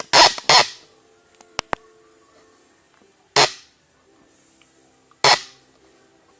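Kitchen utensils knocking and clattering: two sharp bangs close together, two faint clicks, then two more single bangs about two seconds apart.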